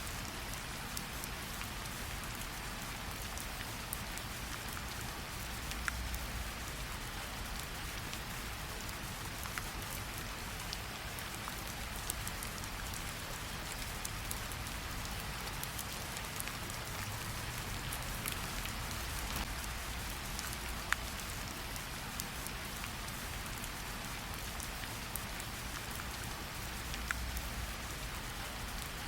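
Steady rain falling on forest ground, leaves and standing water, an even hiss with many scattered sharper drop hits.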